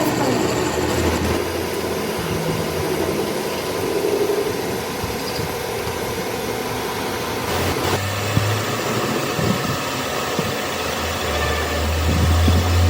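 Steady mechanical running noise, like an engine or workshop machine, with a brief falling whine at the start. The sound changes abruptly about eight seconds in, and a low hum grows stronger near the end.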